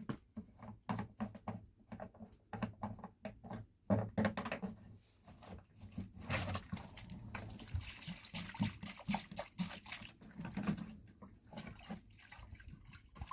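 Water being poured and splashing for several seconds near the middle, after a run of light knocks and clicks from handled objects.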